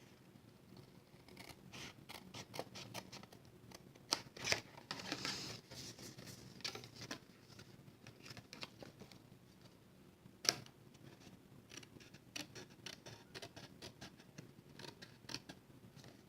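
Cardstock being cut and handled: a run of small clicks and rustles, a longer cutting sound about four to six seconds in, and a sharp snap about ten seconds in.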